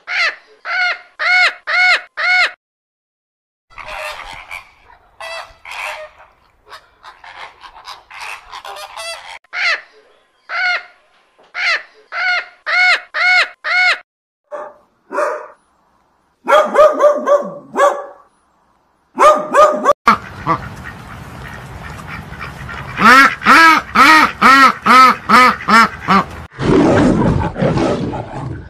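Parrots squawking: loud, short calls in quick runs of several a second, with pauses between runs. Near the end a low, rough growl takes over.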